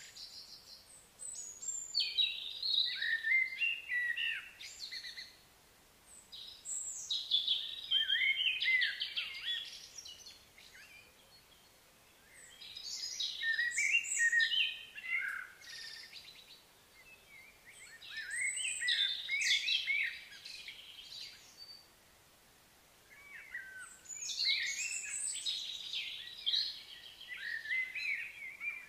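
A songbird singing in quick, warbling phrases that slide up and down, in five bouts of about three to four seconds each, roughly five to six seconds apart, over a faint steady outdoor hiss.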